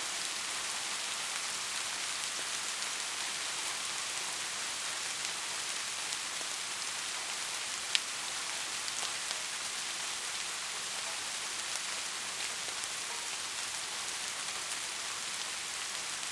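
Steady rain, an even hiss with scattered drop ticks. One sharper, louder tick comes about eight seconds in.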